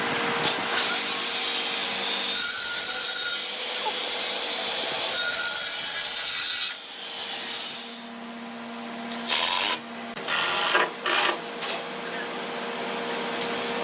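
A power tool working red hardwood. It makes a continuous gritty rasping for about the first seven seconds, then a few short bursts near the end, over a faint steady hum.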